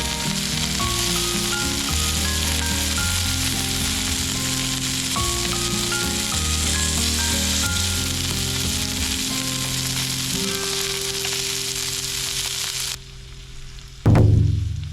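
Steak sizzling and frying in a hot pan, a steady hiss, with background music playing over it. About 13 seconds in the sizzle cuts off, and a second later there is one loud thump.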